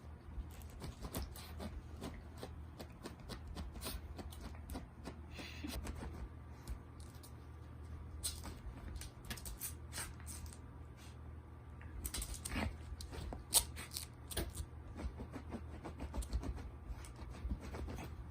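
A Shiba puppy rummaging at a towel: scattered rustling, scuffing and light clicks of fabric and paws over a low steady hum, with one sharper knock about two-thirds of the way through.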